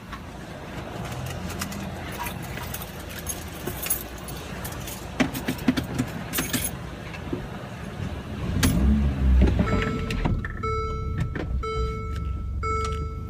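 Scattered clicking and rattling, like keys and handling inside a car, then a low rumble swells about nine seconds in. It is followed by a repeating electronic chime, a short beep about every 0.8 seconds, typical of a car's warning chime.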